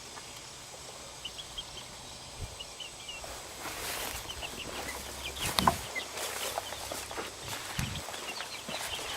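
Young Icelandic chickens peeping and chirping in short, high calls as they forage, with a brief knock about five and a half seconds in.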